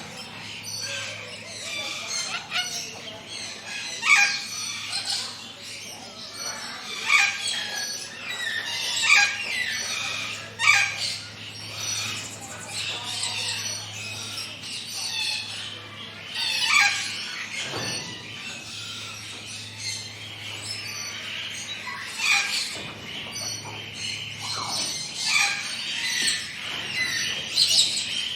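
Forest birds chirping and singing, several birds calling over one another in short, sharp notes, some sweeping down in pitch.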